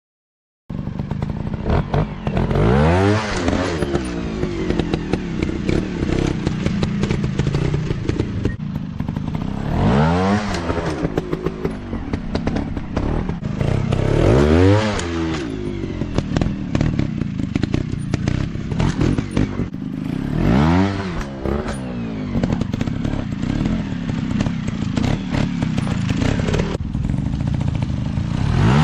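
Dirt bike engines running over rough ground, revving up and falling back about five times, with a continuous clattering rattle.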